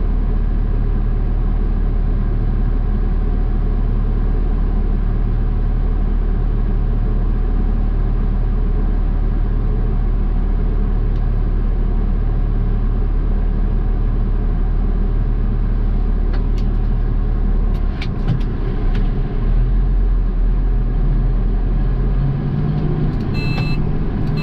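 Garbage truck's diesel engine idling steadily, heard from inside the cab; about 18 seconds in the engine note shifts, with a few clicks. Near the end a reversing beeper starts beeping.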